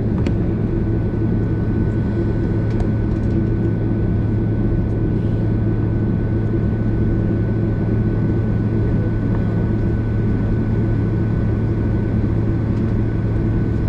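Steady cabin noise inside a Boeing 767 airliner on the ground: a strong low hum with a thin, steady high whine above it.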